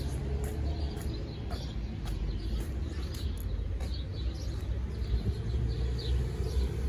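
Outdoor street ambience: a steady low rumble under small birds chirping in short, repeated calls, with faint light ticks now and then.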